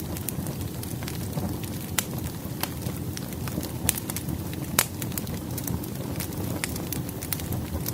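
Wood fire burning: a steady low rumble with irregular sharp crackles and pops of burning firewood, one pop standing out about five seconds in.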